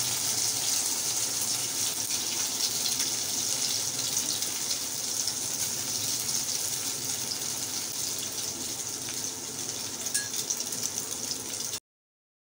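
Egg-and-milk-soaked bread slices sizzling in hot oil in a frying pan: a steady hiss that cuts off suddenly near the end.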